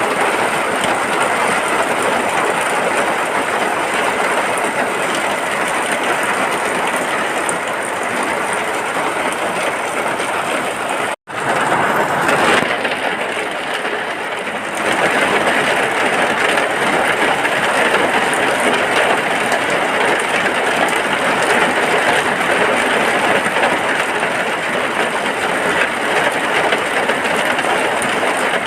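Steady heavy rain heard from inside a hut, an even loud hiss. About eleven seconds in it cuts out for an instant, then sounds thinner for a few seconds before filling back in.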